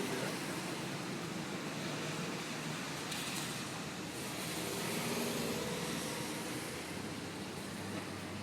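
Steady city background noise like road traffic, an even rush with no single event standing out.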